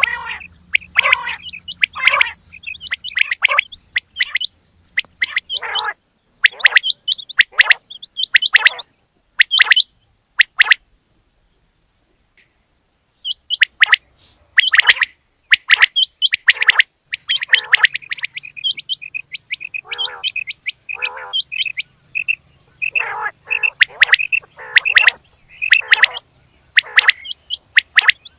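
Female quail calling: short, sharp calls repeated in quick runs, with a pause of a couple of seconds near the middle.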